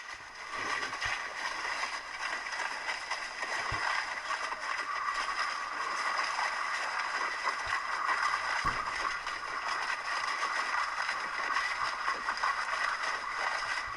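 Steady rain falling, an even hiss with a few faint low thuds.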